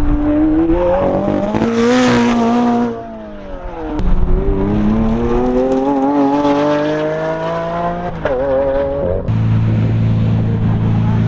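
A supercar engine accelerating hard, its pitch climbing and dropping back at each gear change. After a short lull a Lamborghini Aventador SV's V12 accelerates the same way, with a wavering blip near eight seconds, then settles into a steady low idle about nine seconds in.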